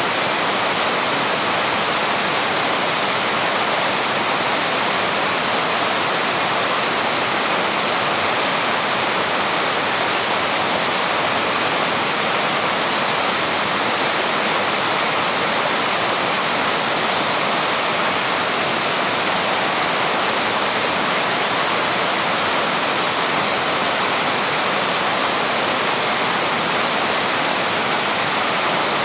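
Waterfall: the steady, unbroken rush of water falling and churning.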